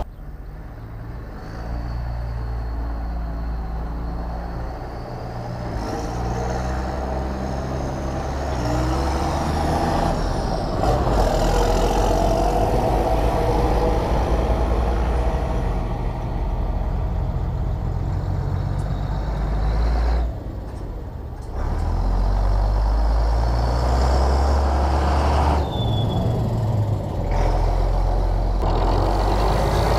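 Case IH 1455 XL tractor's six-cylinder diesel engine running under load, pulling a mounted four-row precision maize seeder. The engine note steps down and back up twice, about two-thirds in and again near the end.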